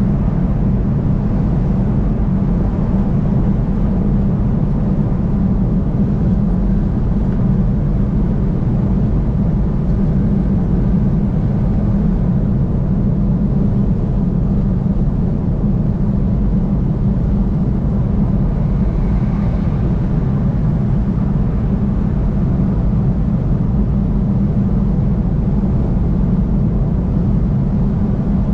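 Steady low rumble of a car driving along the interstate highway, even throughout with no distinct events.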